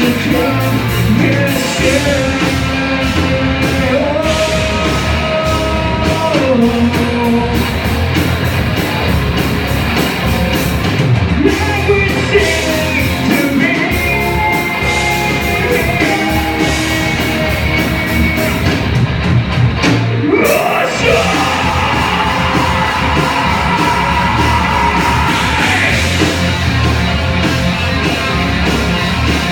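A band playing a rock song live, with a singer over drums and guitars; the music drops for a moment around two-thirds of the way in and then comes back in full.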